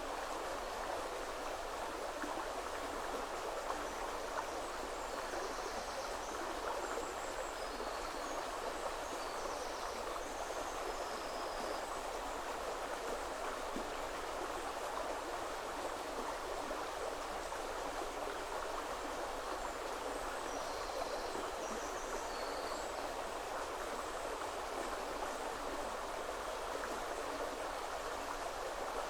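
River water flowing steadily, a constant even rush. Faint, short, high bird calls come through a few seconds in and again about two-thirds of the way through.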